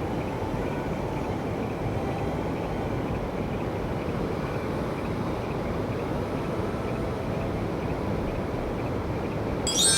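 Steady rushing of a small mountain stream's flowing water, with a brief high-pitched call near the end.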